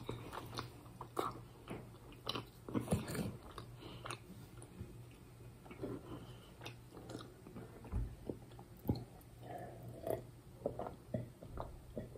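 A person chewing a pistachio cookie, with soft crunches and mouth sounds coming in short, irregular bits.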